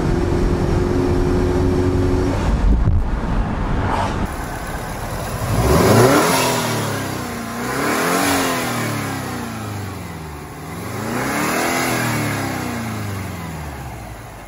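Turbocharged 2.5-litre flat-four of a 2005 Subaru Outback 2.5XT. For about four seconds it runs steadily while driving, heard from inside the cabin. Then, with the hood open, it is revved up and let back down three times, the pitch rising and falling with each rev; the first rev is the loudest.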